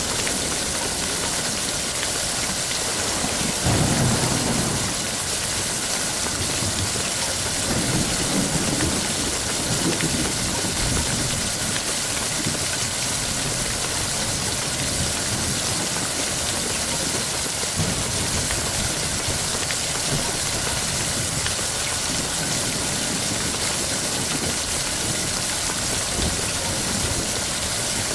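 Heavy rain falling steadily, with thunder rumbling low about four seconds in and a weaker roll of thunder a few seconds later.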